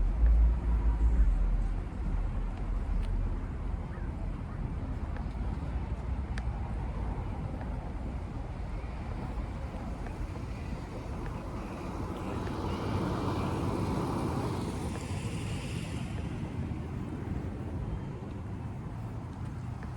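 A car passing on a residential street, its tyre and engine noise swelling and fading over a few seconds, over a steady low rumble of traffic.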